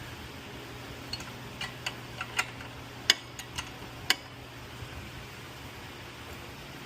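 Several sharp metallic clicks and clinks at irregular intervals, from hand tools or parts being handled and set down, with the two loudest near the end of the run; a steady low hum continues underneath.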